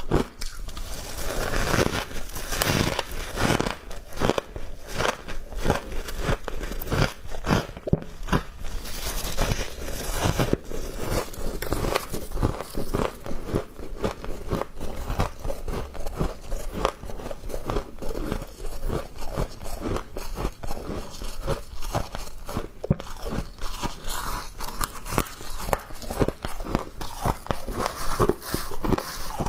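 Thin ice and frost being bitten and chewed by mouth: a continuous run of sharp, irregular crunches and cracks, several a second.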